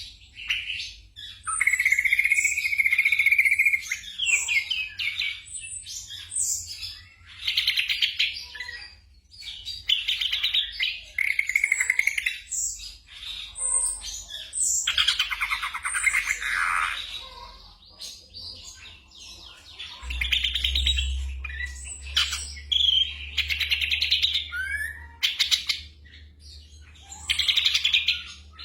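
Black drongo singing: separate phrases a second or two long of varied chirps, whistles and rapid trills, with short pauses between them.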